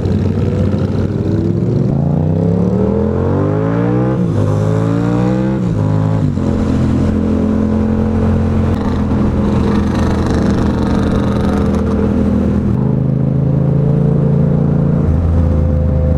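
Yamaha FZ-07 parallel-twin engine accelerating hard through the gears, its note rising and then dropping at upshifts about four and six seconds in. It then holds a steady cruising note, with small shifts in pitch near the end.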